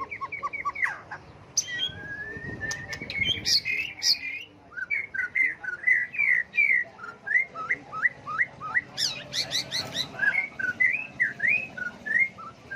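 White-rumped shama singing a varied song of clear whistled phrases that keep changing. A long rising whistle comes about two seconds in, then a run of short, quick slurred notes, with a few very high sharp notes around nine seconds.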